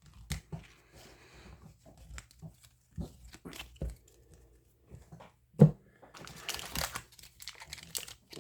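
Light clicks and taps of trading cards being handled, with one sharp knock about five and a half seconds in. Near the end comes a dense crinkling and tearing of a card-pack wrapper being torn open.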